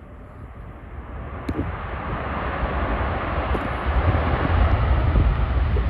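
Airbus A330 jet airliner on its landing approach, its engine noise a steady rumble growing steadily louder as it draws near.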